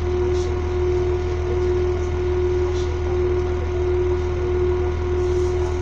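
Stationary train idling, heard from inside the carriage: a steady low rumble with a constant humming tone that does not change.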